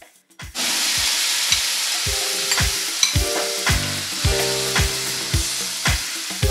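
Wet ground mint-coriander paste poured into hot oil in a kadai with spluttered mustard seeds and dried red chillies. It starts a sudden, loud sizzle about half a second in that slowly dies down as the paste fries.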